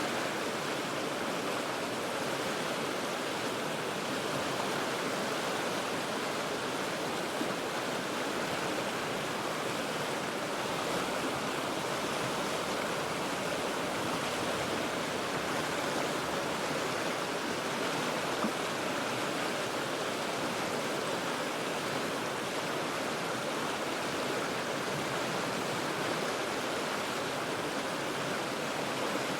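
River water rushing over rocks in a steady, unbroken roar, heard from about forty feet above the water.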